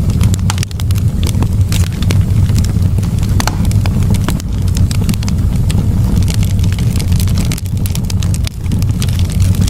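Campfire burning: wood crackling and popping in many quick, irregular snaps over a steady low rumble.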